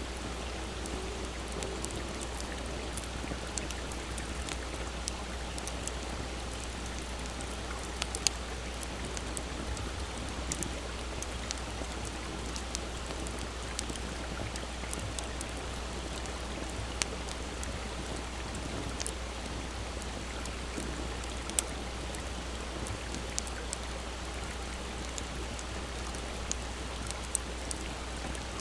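Wood campfire crackling with scattered sharp pops, a few of them louder, over the steady rush of a small stream.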